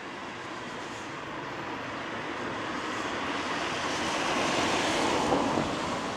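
A vehicle passing on a wet road, its tyres hissing, growing steadily louder to a peak about five seconds in and then fading.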